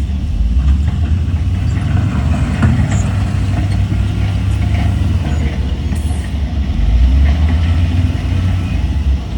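Diesel engine of heavy earthmoving equipment running, a deep steady rumble with light clanking and rattling over it, swelling louder about half a second in and again around seven seconds.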